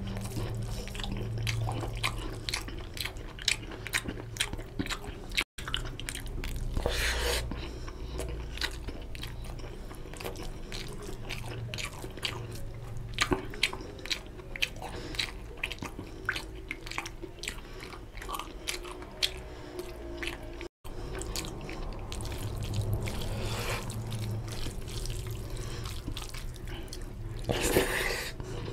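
Close-miked eating by hand: wet chewing and lip smacking of rice and mutton curry, many short sticky clicks, and fingers squishing rice into the gravy, over a low steady hum. Two or three brief louder breathy rushes stand out, and the sound drops out for an instant twice.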